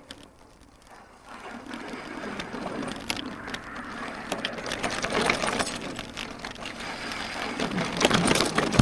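E-bike rolling over rough ground off the path, its frame and parts rattling with quick clicks over tyre noise, getting louder toward the end.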